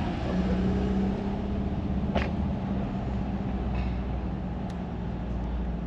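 A vehicle engine running steadily at idle, with a single short click about two seconds in.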